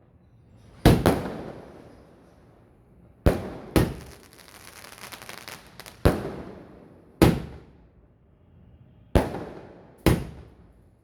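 'Arabian Delight' 120-shot fireworks cake firing: about eight sharp bangs, roughly in pairs every two to three seconds, each echoing away. After the shots a little before 4 s there is a crackling hiss that lasts about two seconds.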